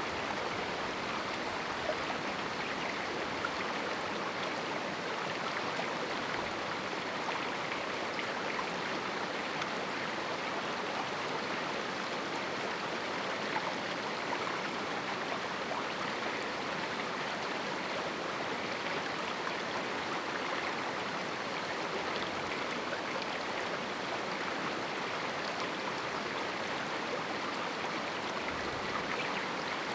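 A small river rushing and babbling over rocks in a canyon, a steady even wash of water noise.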